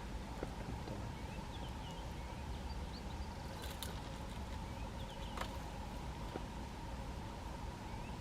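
Leopard feeding on a carcass, with a few scattered sharp cracks and crunches as it chews at the joints. Under it runs a steady low rumble with a faint steady hum, and there are a few faint high chirps.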